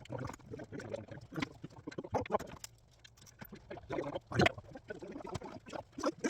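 Irregular clinks, knocks and scrapes of hand tools and metal engine parts being handled during an engine teardown, with a few louder knocks about four seconds in.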